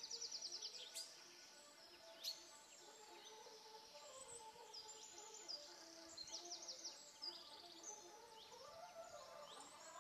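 Small birds chirping, with repeated quick high trills, over quiet outdoor background.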